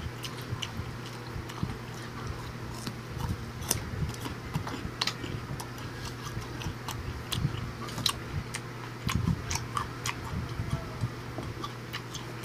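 Close-up chewing and biting of crisp raw fruit: irregular crunches and wet mouth clicks, over a steady low hum.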